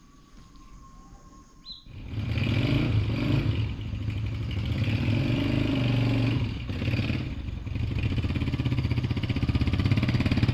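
Motorcycle engine starting about two seconds in and then running steadily.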